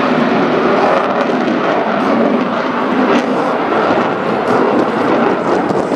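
Dassault Rafale C fighter jet's twin Snecma M88 turbofans making loud, steady jet noise as it flies its display.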